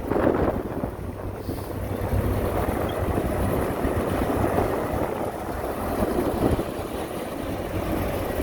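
Heavy diesel construction machinery running steadily, with wind noise on the microphone.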